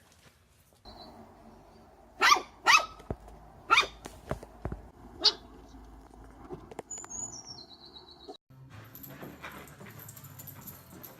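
A dog barking: a few sharp barks in quick succession, then a fourth a moment later.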